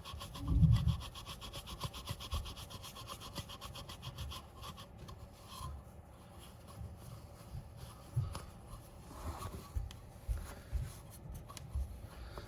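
Fast, rhythmic scrubbing on a chrome spoked motorcycle wheel rim, rubbing off rust by hand. The strokes come densely at first and thin out after a few seconds, with scattered low knocks, the loudest about a second in.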